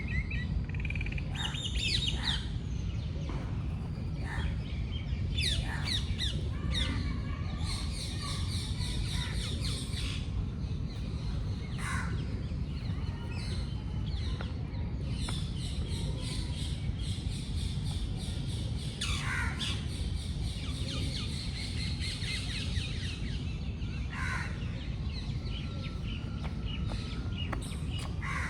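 Many birds chirping and squawking, short calls coming one after another throughout, over a steady low rumble.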